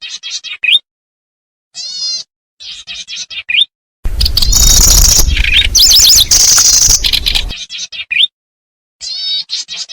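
Lure recording of kecici belalang birds: short, rapid chirping phrases about half a second long, repeated with short gaps. About four seconds in comes a louder three-and-a-half-second stretch of dense, overlapping calls over a rushing noise.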